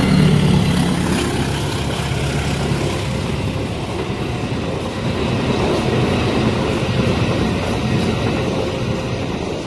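A long train passing a level crossing, its wheels on the rails making a steady, loud rumble throughout.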